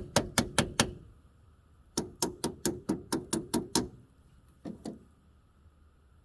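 Starter clicking in quick bursts of sharp clicks, about five a second, as the key is tried three times without the engine turning over: the sign of a dead battery.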